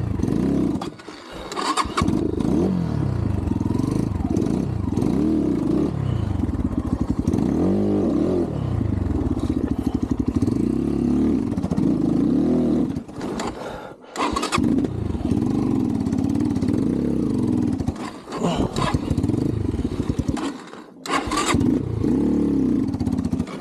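Xpro Templar X 250cc single-cylinder four-stroke dirt bike engine revving up and down hard on a steep climb, dropping away briefly several times and picking back up. The owner puts the bogging and stalling down to a carburettor idle screw that needed opening.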